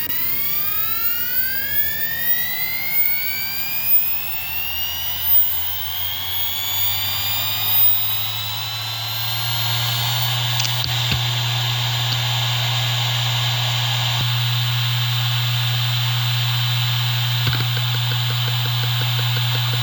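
Hitachi Deskstar E7K500 7,200 rpm hard drive spinning up: its whine rises in pitch and levels off about ten seconds in. It then runs at full speed with a steady hum and an occasional faint click.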